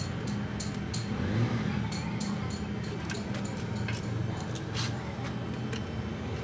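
Small metal parts and tools clinking and tapping in a series of short, sharp clicks, over a steady low hum.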